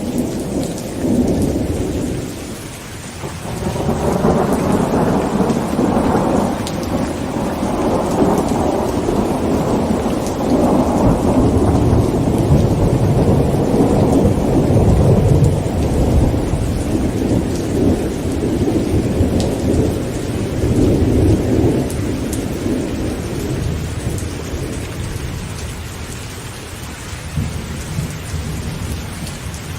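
Heavy rain on a tent with thunder: a short rumble right at the start, then a long thunder rumble that builds about four seconds in and fades away over the last several seconds, under steady rain.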